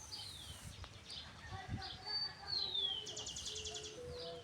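Wild birds calling: clear high whistles that slide down in pitch, and about three seconds in a short, rapid trill of repeated notes.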